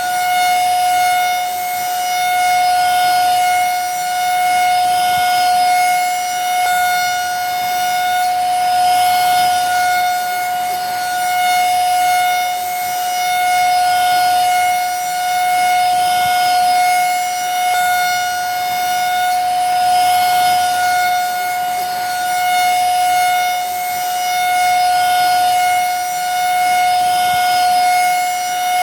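Vacuum cleaner motor running steadily: a constant high whine over a rushing hiss, swelling gently about every two seconds.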